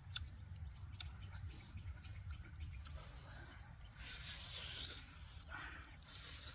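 Eating sounds of a person chewing and biting into grilled crocodile meat and skin, with scattered lip smacks and wet mouth clicks.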